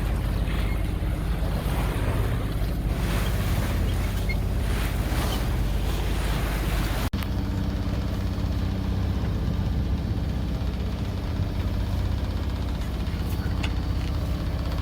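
Sailboat's diesel engine running with a steady low drone, under the rush of wind and waves along the hull. About seven seconds in, the sound breaks off sharply. After that the engine drone carries on with much less wind and water noise.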